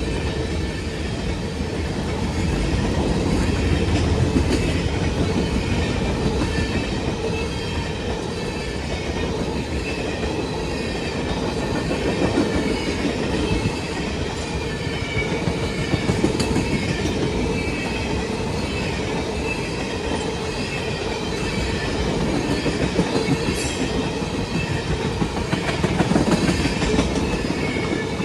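Train cars rolling past on the rails, wheels clacking over the rail joints in a steady, continuous run, with faint high wheel squeal at times.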